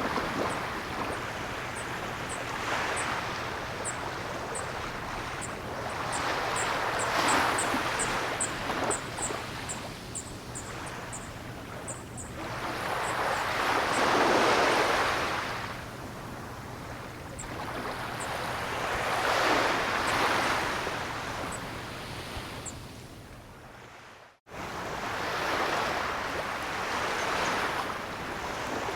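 Ocean waves breaking and washing back, the rush swelling and fading about every six seconds. Short, faint high ticks run through the first half, and the sound cuts out for an instant about three-quarters of the way through.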